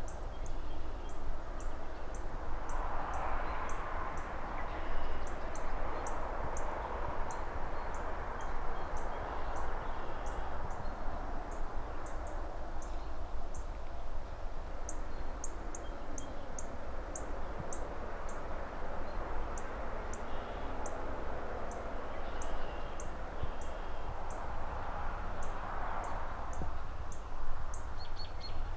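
Distant city ambience: a steady rushing of traffic and rustling trees that swells every few seconds, over a constant low rumble. Throughout, birds chirp in short high notes repeated about two to three times a second, with a few fainter calls.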